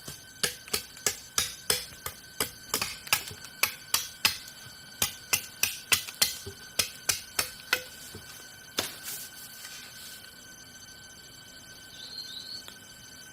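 A rapid run of sharp strikes, about three a second, stopping about eight seconds in with one last strike a second later. A faint steady high tone runs underneath.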